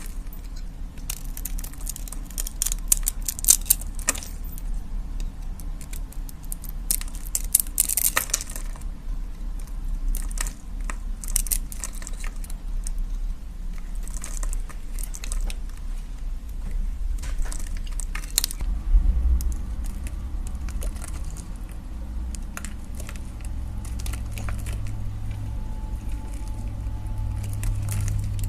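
A knife cutting into soap, with rapid crackling, crunching clicks as the blade breaks through. A low hum comes in about two-thirds of the way through.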